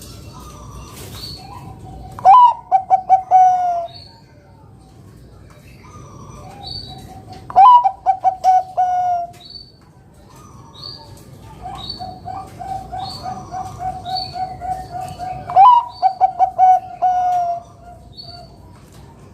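Zebra dove (perkutut) singing three loud phrases, each a sharply rising opening note followed by a quick run of coos. A softer run of coos leads into the last phrase, and short high chirps recur throughout.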